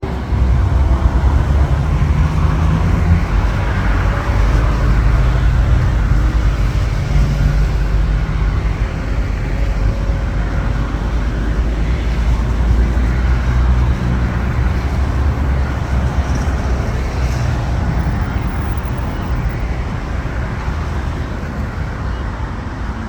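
Airbus A321-211 jet engines (CFM56) at takeoff power: a loud, steady, deep rumble with a few faint tones in it, easing off slowly near the end.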